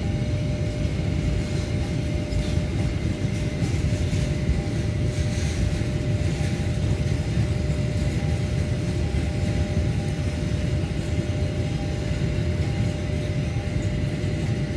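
Steady low rumble of a container freight train's wagons rolling past on the rails, with faint steady whining tones over it.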